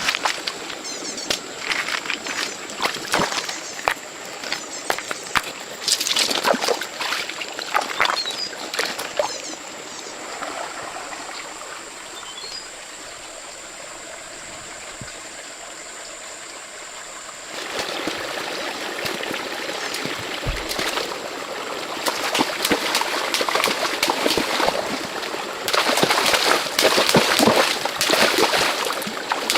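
Water trickling and splashing, with scattered clicks and knocks; it goes quieter and smoother in the middle and gets louder and busier in the last third.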